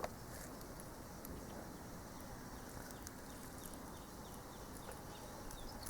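Faint outdoor ambience with a run of short, high chirps from an insect, a few each second, starting about halfway through.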